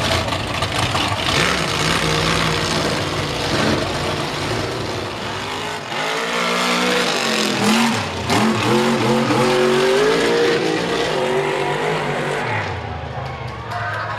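Mega truck engine running hard, with a dense rumble at first; from about six seconds in its pitch climbs and falls again and again as it is revved.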